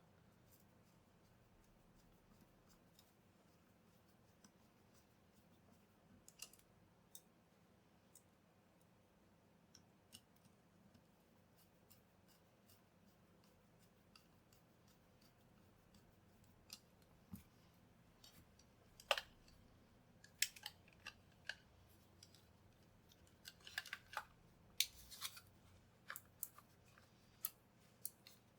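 Scattered small sharp clicks and snips of hand work on a small electronic device, sparse at first and busier in the second half, over faint room tone.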